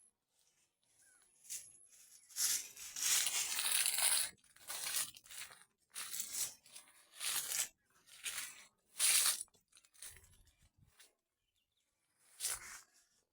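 Irregular crunching and tearing strokes of dry soil and vegetation being broken up, about one a second, some with a dull thud beneath.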